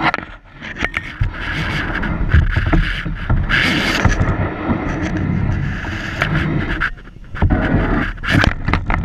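Kayak knocking and scraping amid many sharp knocks, with wind rumbling on the microphone.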